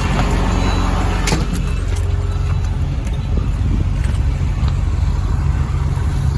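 Heavy fork loader's engine running steadily under load while its forks fold a pickup truck body, with a sharp crack about a second in.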